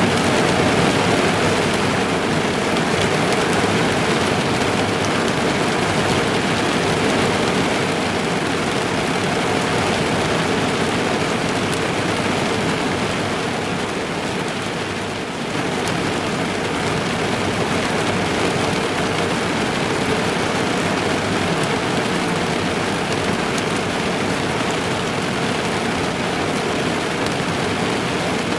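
Steady heavy rain drumming on a car's roof and windows, heard from inside the car. There is a brief dip in level about fifteen seconds in before the rain comes back at full strength.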